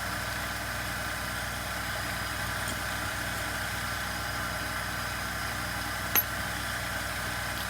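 Steady mechanical background hum with several fixed tones, unchanging throughout, and one sharp click about six seconds in.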